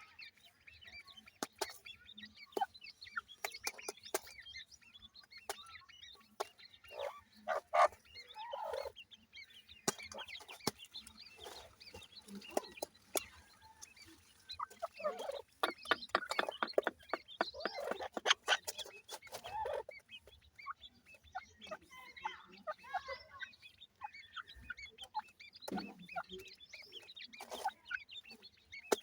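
Grey francolin chicks calling in short, irregular cheeps and clucks, mixed with scattered sharp ticks. The calling is busiest about halfway through.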